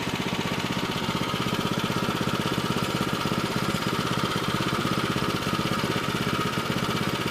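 The small gas engine of a Woodland Mills HM122 bandsaw sawmill running steadily, with a fast, even firing pulse and a steady whine above it.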